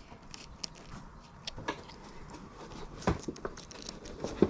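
A few scattered light clicks and taps at irregular intervals, with the sharpest one near the end.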